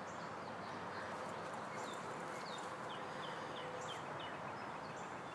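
Birds calling over a steady outdoor hiss: a run of short, high chirps, each sliding down in pitch, coming quicker in the middle of the stretch, with fainter ones near the end.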